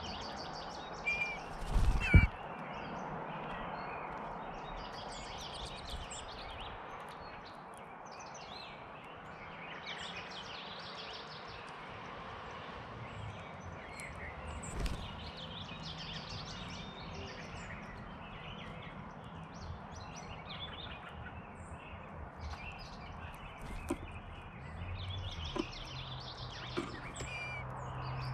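Wild birds chirping and calling in short, scattered notes over a steady outdoor background noise. A single loud thump about two seconds in, and a low hum comes in near the end.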